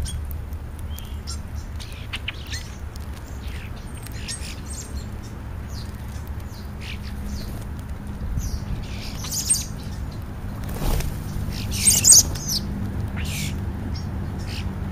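European starlings calling in short, scattered high chirps, with the loudest cluster of calls about three seconds before the end.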